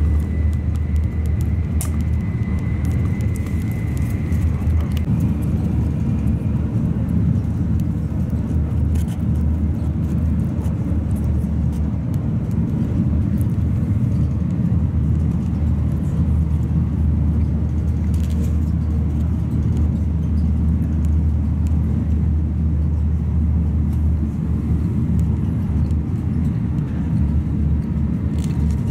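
Cabin noise of a Tokaido Shinkansen train running at speed: a steady, loud low rumble, with a thin high whine over it for the first few seconds.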